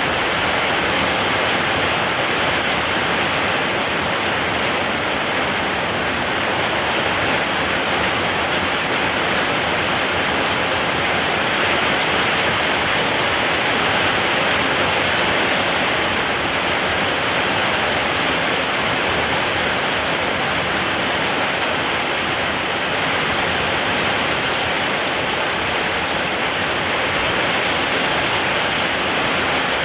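Steady rain falling, an even hiss with faint drop ticks that holds level throughout.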